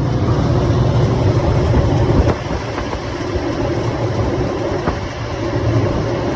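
Ford 4.6-litre V8 engine running at idle, steady and loud.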